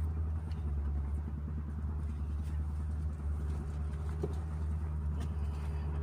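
Car engine idling with a steady low hum, a few faint knocks from groceries being handled over it.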